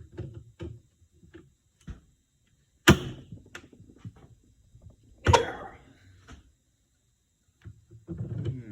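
Hand tools and metal parts being handled while a power steering cylinder is taken apart. There are light clicks and rattles, and two loud, sharp clanks about three seconds and five seconds in; the second one rings briefly.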